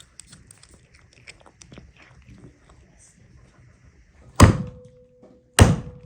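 Light clicking and crunching, then two heavy chopping thuds about a second apart near the end, each leaving a faint ring behind it.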